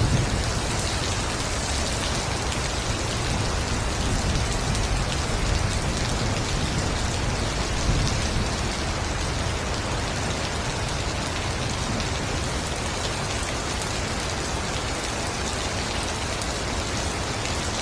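Heavy rain falling steadily on forest foliage, a dense even hiss with a few low rumbling swells in the first half.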